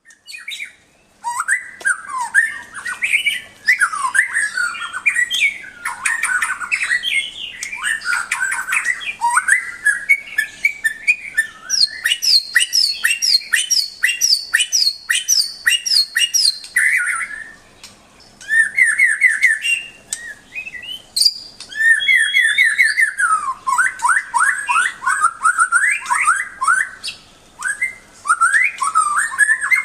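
White-rumped shama (murai batu) singing a long, varied song of whistled phrases, sliding notes and quick runs of repeated notes, with short breaks between phrases. The song starts about a second in.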